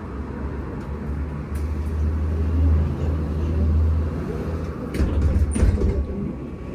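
Cabin noise inside a VMZ Avangard trolleybus: a steady low rumble that swells for a couple of seconds, with a few sharp knocks about five seconds in.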